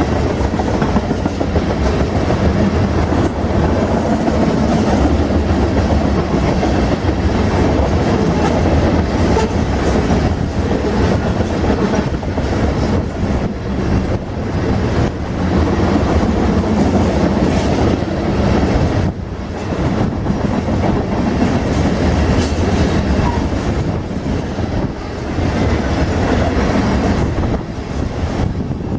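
Ethanol freight train's tank cars rolling past: a steady rumble of steel wheels on rail with a rhythmic clickety-clack over the rail joints, easing briefly about two-thirds of the way through.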